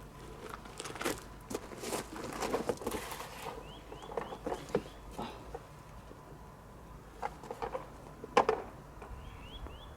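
Scattered light clicks and knocks, with a bird calling twice in a quick run of about five short rising chirps.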